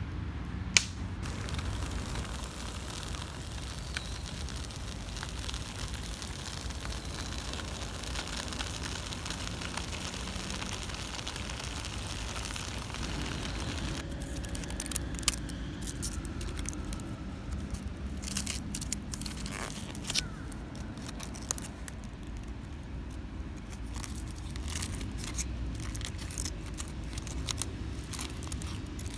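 Wood campfire crackling over a steady low outdoor rumble. Scattered sharp pops and snaps come more often from about halfway through.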